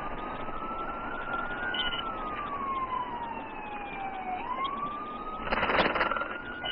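Police car siren in a slow wail: it climbs, falls steadily for a couple of seconds, then climbs again. A fainter second siren tone glides down above it, and a short burst of crackly noise comes in about five and a half seconds in.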